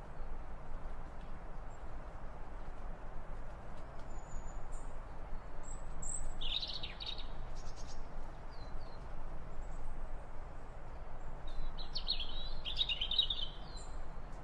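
Birds chirping in two short clusters of high calls, about six seconds in and again near the end, over steady background noise.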